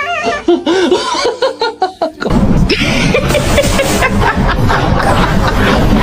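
Laughter: short chuckling and snickering, then from about two seconds in a louder, denser stretch of laughing.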